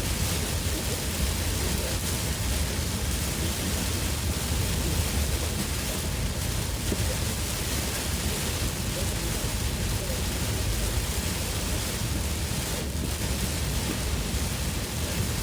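Heavy monsoon rain falling on a moving car, a steady dense hiss over a low road rumble, heard from inside the cabin.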